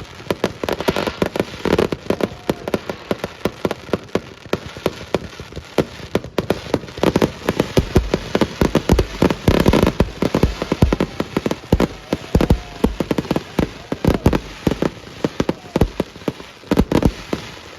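Fireworks display: a dense, continuous run of bangs and crackles from many shells bursting in quick succession.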